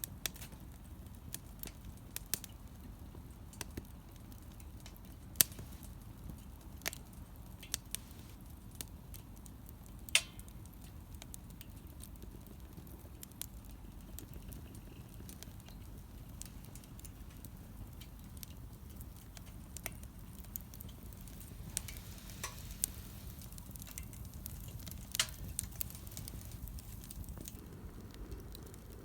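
Wood fire burning in a Solo Stove Campfire, a double-walled stainless steel fire pit: a steady low rush of flame with irregular sharp crackles and pops, the loudest about five and ten seconds in.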